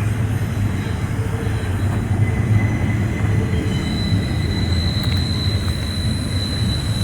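Union Pacific double-stack freight train running, with a steady low diesel rumble. Thin, steady, high-pitched wheel squeal comes in about two seconds in and strengthens near four seconds.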